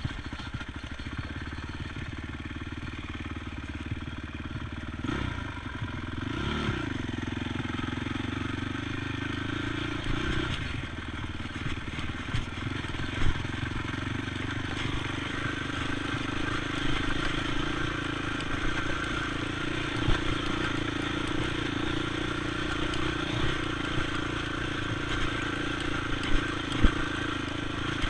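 ATV engine running steadily while riding, with a brief rise and fall in revs about six seconds in and scattered knocks and clatter over rough ground.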